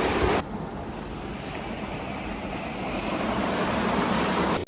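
Wind buffeting the microphone: a steady rushing noise, swelling a little near the end.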